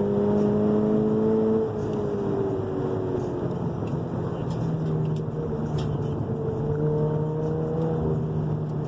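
Car engine running hard on a mountain road, its pitch climbing slowly, then dropping sharply about a second and a half in, and holding lower with a slight climb near the end.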